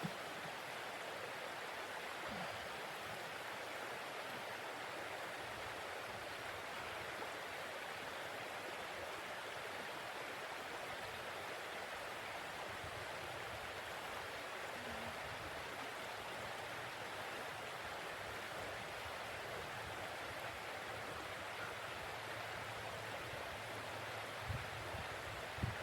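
A steady, even rushing hiss that neither rises nor falls, with a few low thumps near the end.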